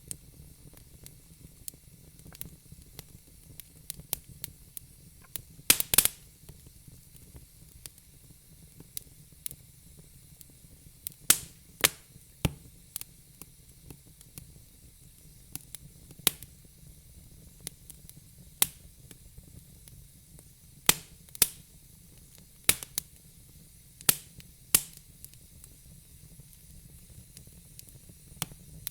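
Wood fire in a fire pit crackling: irregular sharp pops and snaps of burning logs over a low hiss. The loudest pops come about six seconds in and in clusters around twelve and twenty-two seconds.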